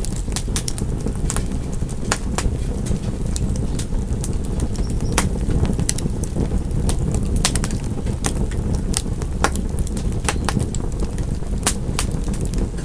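Fireplace fire crackling: frequent irregular sharp pops and snaps over a steady low rushing of the flames.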